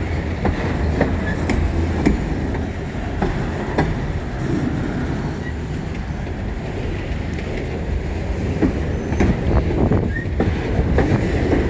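CN freight train's cars rolling past close by: a steady low rumble of steel wheels on rail, with occasional sharp clacks.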